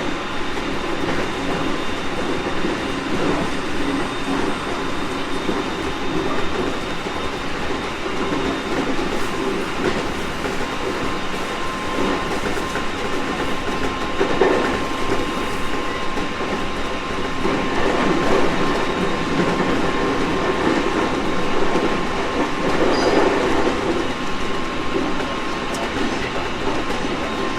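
JR East 701 series 1000-番台 electric train running along the line: a steady rumble of wheels on rail with occasional clatter over rail joints. A thin steady whine comes in about halfway through.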